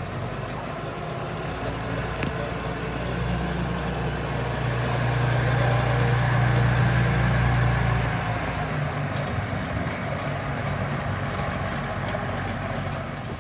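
An engine running with a steady low hum; it grows louder for a few seconds in the middle and then eases back. There is a single sharp click about two seconds in.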